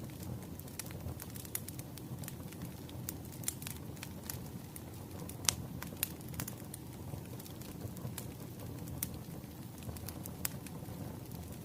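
Wood fire crackling: logs burning with irregular sharp pops and snaps over a steady low rumble, with a louder pop about five and a half seconds in.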